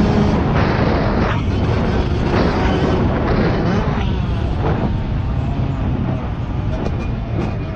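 Dirt bike engine running during a ride, under a dense, steady low rumble.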